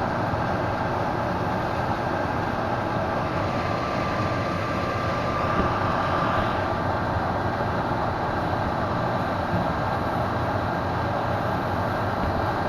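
Microwave oven running: a steady hum and fan drone as it heats.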